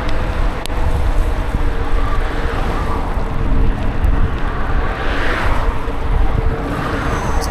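Wind buffeting the microphone of a rider moving through heavy rain, a steady low rumble under a hiss of wet road and rain. The hiss swells about five seconds in, then eases.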